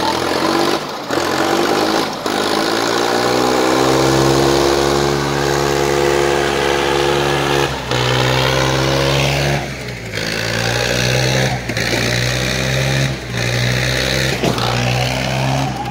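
Swaraj 855 tractor diesel engines running at high revs, as in a tug-of-war pull. The pitch rises over the first few seconds and then holds steady, with several brief dips.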